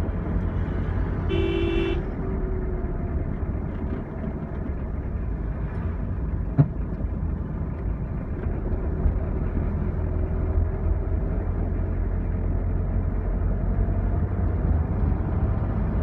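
Steady engine and road rumble of a vehicle on the move. A horn toots briefly about a second and a half in, and there is a single sharp click a few seconds later.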